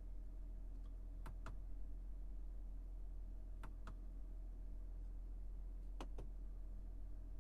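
Soft clicks in pairs, a pair about every two and a half seconds, over a low steady hum.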